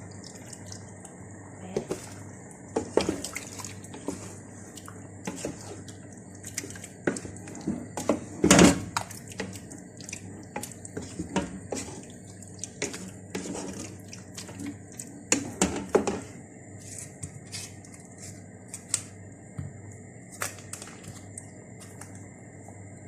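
Cooking-utensil and container handling in a kitchen: scattered sharp clicks, taps and knocks while cream is added to the pan, with one louder clatter about eight and a half seconds in, over a steady faint hum.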